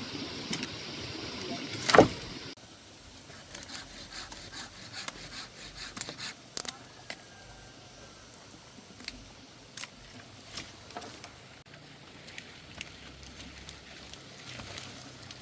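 One loud, sharp knock about two seconds in, then scattered light clicks and snaps, typical of wood, branches and twigs being handled and broken up.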